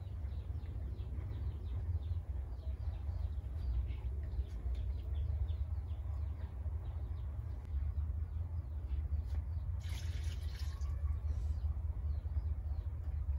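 Birds chirping over and over in short, high, falling notes above a steady low rumble, with a brief hiss about ten seconds in.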